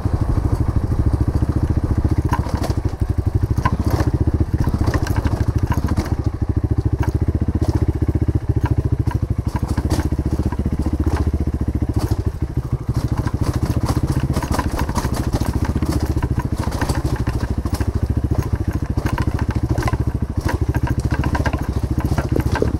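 Motorcycle engine running at a steady, even speed, with scattered crackling ticks over it.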